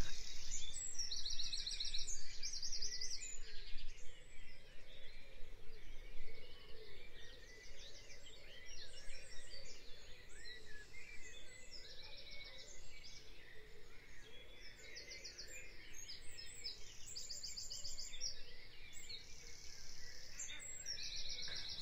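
Birds chirping and trilling repeatedly in the background, over the intermittent rustle and crinkle of a plastic mailer bag and bubble wrap being handled, which is loudest in the first few seconds.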